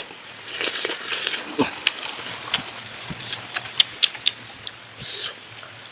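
Close-up chewing and lip-smacking while eating boiled chicken: irregular wet smacks and clicks of the mouth working on the meat.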